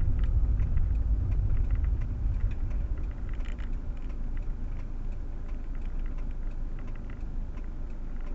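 Low rumble inside the cabin of a Proton Waja CPS 1.6, easing slightly after about two seconds, with scattered light ticks throughout.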